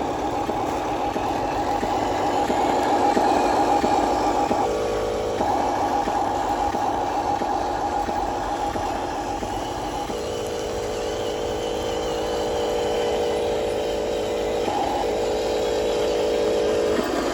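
Electric motors and gearboxes of a toy-scale RC construction vehicle whining steadily, the pitch changing several times as it switches between motions.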